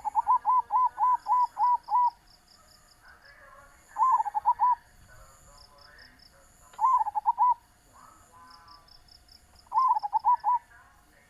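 Zebra dove (perkutut) cooing in four bursts of quick repeated notes: a run of about eight at the start, then three shorter runs of four or five notes about three seconds apart. A faint, high-pitched rhythmic pulsing and soft chirps run behind it.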